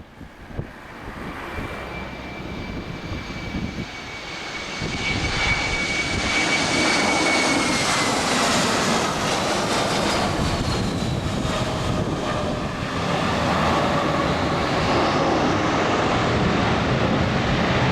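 Jet engines of an easyJet Airbus A320-family airliner on landing approach, growing louder over the first few seconds, then a steady loud rumble with a high whine that drops in pitch about eight seconds in as the aircraft passes.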